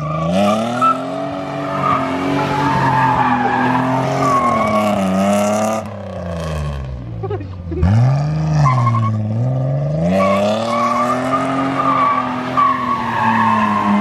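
Datsun 240Z doing donuts: the engine is held high in the revs, rising and falling, while the tires squeal. The revs fall away about six seconds in and shoot back up about two seconds later.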